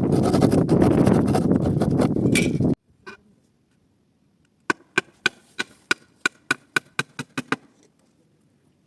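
A loud steady rushing noise cuts off abruptly about three seconds in. After a single knock comes a quick run of about fifteen sharp hammer blows, roughly five a second, each with a short ring.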